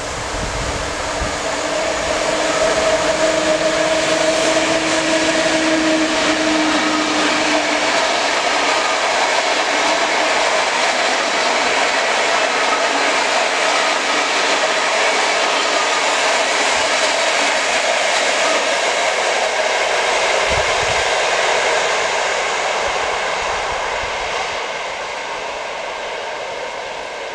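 Electric locomotive hauling passenger coaches passing at speed: a loud rushing of wheels on rails, with a steady hum from the locomotive during the first several seconds, then the coaches running by. The noise fades away as the train recedes near the end.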